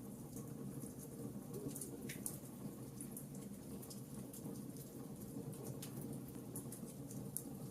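Wood fire crackling: scattered sharp pops and snaps over a soft, steady low rumble of burning.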